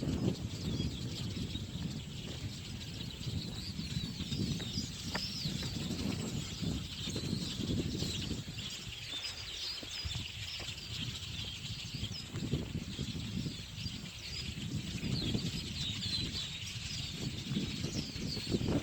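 A huge flock of birds calling together: a dense chatter of many overlapping short, high chirps that never lets up, over a low rushing noise.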